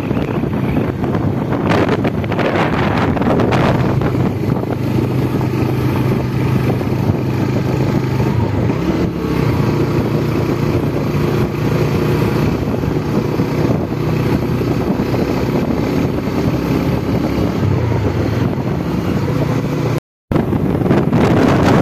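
Motorcycle engine running at riding speed, its hum rising and falling a little with the throttle, under heavy wind buffeting on the microphone.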